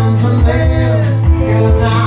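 Live band playing a song, with a strong pulsing bass line under the other instruments.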